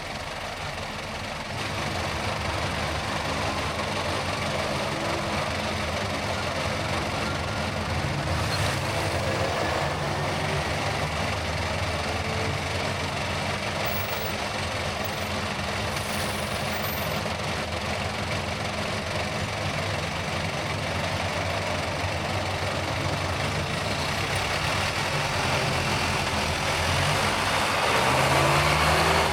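Car on the move: steady engine and road noise, growing a little louder near the end.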